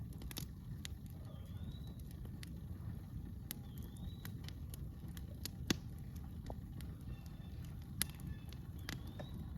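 Wood campfire crackling, with scattered sharp pops, the loudest about halfway through and again near the end. A bird gives a short rising call every few seconds.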